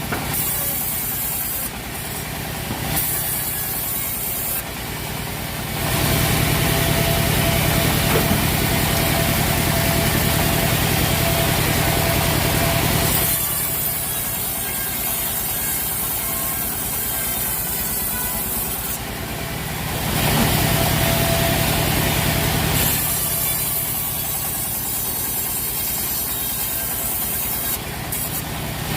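Sawmill machinery running steadily with an engine-like hum. It grows louder twice, for about seven seconds and then about three seconds.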